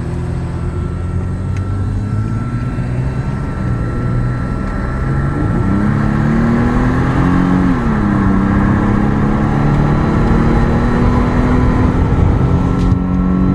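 Nissan pickup truck's engine and road noise heard from inside the cab while driving. The engine pitch rises from about five seconds in, then drops sharply about a second and a half later as the truck shifts up a gear, and then holds steady as the truck gathers speed.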